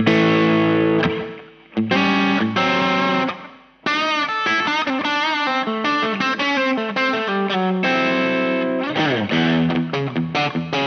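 Electric Strat-style guitar played through a Caline Barn Owl digital reverb pedal and a Ceriatone OTS Mini 20 amp head. Two chords ring out and decay into the reverb, then from about four seconds in comes a run of single notes with bends and a slide.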